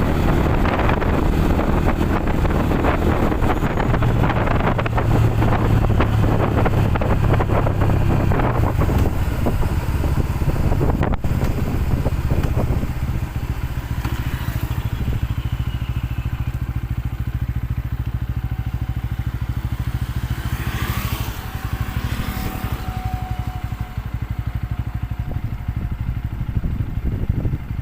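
Motorcycle engine running under way, a steady low drone that eases off about halfway through. A brief sweeping sound passes about three-quarters of the way in.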